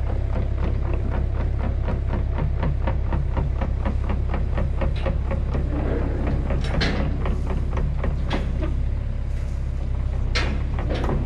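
A heavy machine's engine running steadily with a deep hum, over a rapid, even clicking of about five clicks a second that stops about halfway through. A few louder knocks follow.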